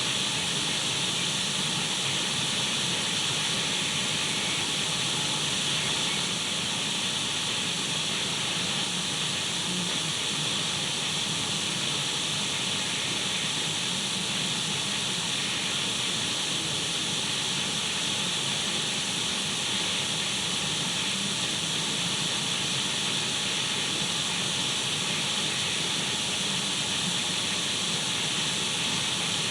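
Radio static: a steady, unchanging hiss of white noise, brightest in the upper range with a faint low hum beneath it.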